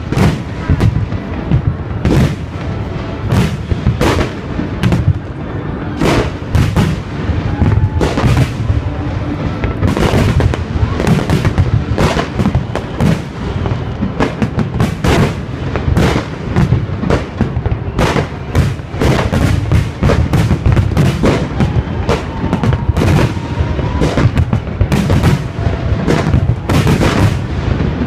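Fireworks salute: a rapid, irregular barrage of shell bursts, several bangs a second without a break, over a heavy low rumble.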